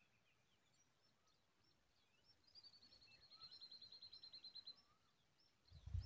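Faint high-pitched bird trill: a rapid run of thin notes, about ten a second, sliding slightly down in pitch for a couple of seconds in the middle, with scattered faint chirps around it. Low thumps and rustling begin right at the end.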